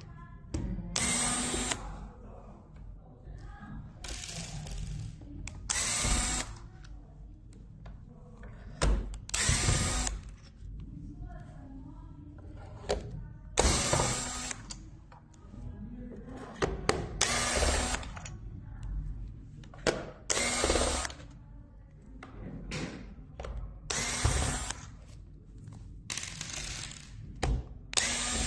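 Small cordless power screwdriver whirring in about ten short bursts, a few seconds apart, as screws are driven out of a robot vacuum, with faint clicks and clatter of plastic parts between bursts.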